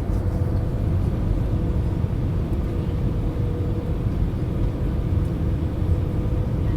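Steady low rumble of engine noise heard inside the cabin of an Airbus A319 airliner, with a faint steady hum above it.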